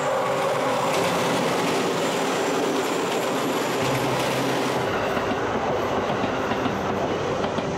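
Electric commuter train passing close by at speed: a steady rush of wheels on rails. About five seconds in, the sound changes to a second train rolling past.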